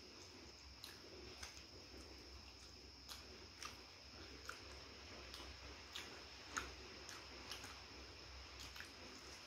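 Quiet chewing and biting of crispy fried chicken, with irregular small crunches and clicks as the pieces are torn and eaten by hand. A faint steady high-pitched whine and a low hum sit underneath.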